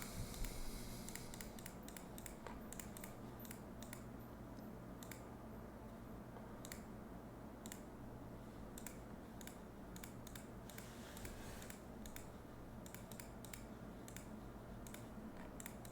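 Faint, irregular clicking at a computer, many small clicks at uneven intervals, over a low steady hum.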